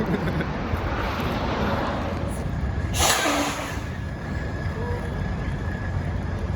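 Steady low rumble of a vehicle engine running, with a short, loud burst of hissing air about three seconds in.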